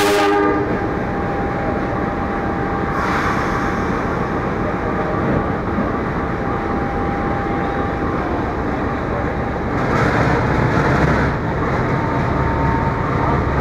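Diesel-hauled passenger train standing at a station platform with its engines running: a steady rumble, a steady whine that fades out about 8 seconds in, and two bursts of hissing, one about 3 seconds in and one lasting about a second around 10 seconds in. The low rumble grows louder after the second burst.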